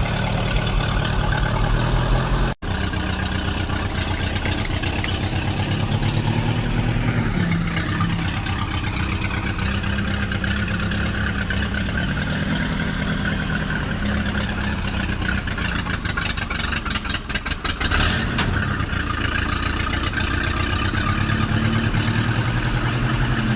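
Vehicle engine running steadily at idle, with a brief cut-out about two and a half seconds in and a rapid run of clicks near the three-quarter mark.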